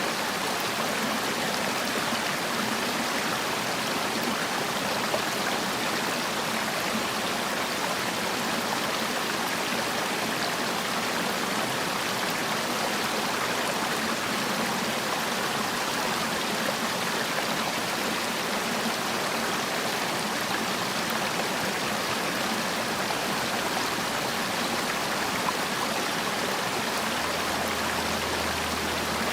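Mountain stream water rushing and splashing over rocks in a continuous, even flow.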